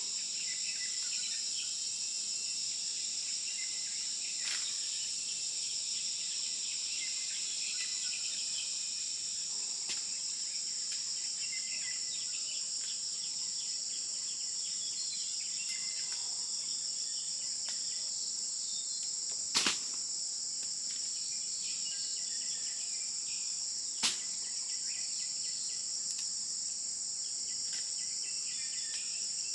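Steady, high-pitched insect chorus of crickets or cicadas droning without a break. Two sharp clicks stand out about two-thirds of the way through, roughly four seconds apart.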